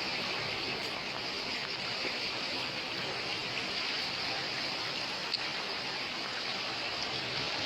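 Steady rushing of water, an even hiss with no breaks, with a faint click about five seconds in.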